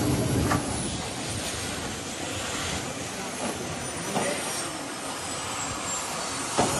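Mi-17 helicopter with its twin turboshaft engines and rotor running, a steady rushing noise with a faint high whine slowly falling in pitch, and a few clicks.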